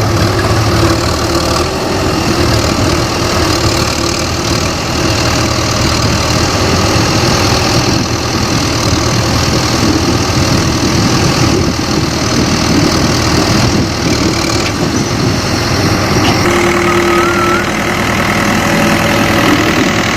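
CAT 424B2 backhoe loader's diesel engine running steadily, with a brief higher steady tone about three quarters of the way through.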